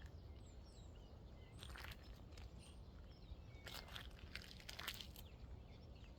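Faint outdoor ambience: small birds chirping now and then over a low steady rumble, with a few short crunching rustles about two seconds in and again near the middle.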